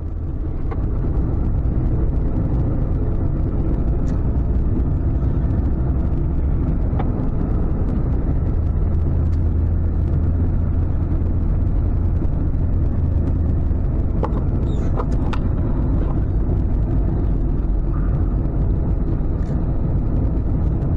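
Ford F-550 tow truck driving at a steady speed, its engine and road noise making a continuous low rumble, with a few faint ticks.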